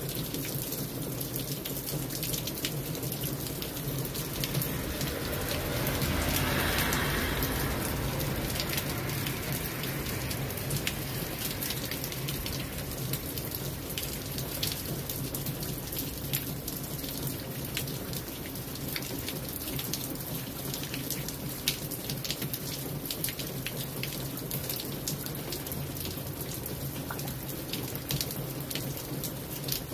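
Steady rain falling on wet brick pavers, with sharp drop ticks throughout. About six seconds in, a car passes on the wet street, its tyre hiss swelling and fading over a few seconds.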